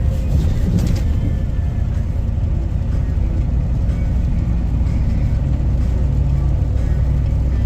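Steady low drone of a motor vehicle on the move: engine and road noise.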